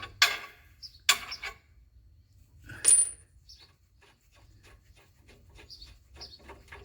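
Hard knocks and clinks of a drilled mounting plate and bolts being handled and test-fitted for a lathe motor: three sharp knocks, the third with a brief high metallic ring, then light ticks and taps.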